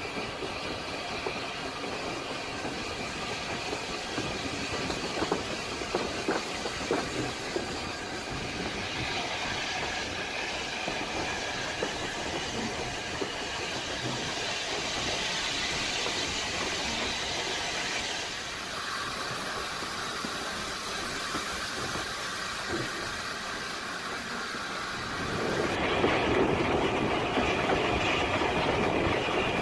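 Steam-hauled heritage train running, heard from a carriage window: wheels clattering over rail joints over a steady rumble and hiss. It gets louder for the last few seconds.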